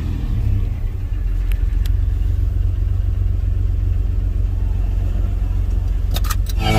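1992 GMC Sonoma GT's V6 engine idling steadily just after being started, with a few light clicks, heard from inside the cab.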